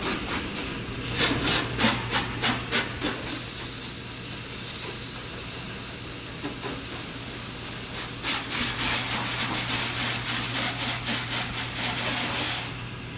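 Repeated rubbing strokes of a cloth or wash brush over a car's painted body panels, with a steady hiss through the middle stretch. The rubbing stops just before the end, and a low electrical hum runs underneath.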